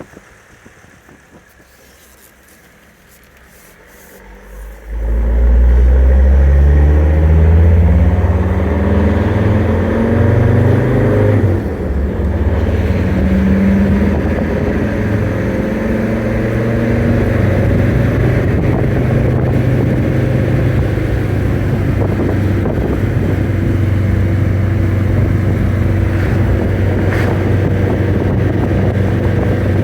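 Mercedes turbo diesel engine in a 1994 Toyota 4Runner pulling away under load. It comes in loud about five seconds in and rises in pitch as the truck accelerates, falls briefly at a gear change near the middle, rises again, then holds a steady drone at cruising speed.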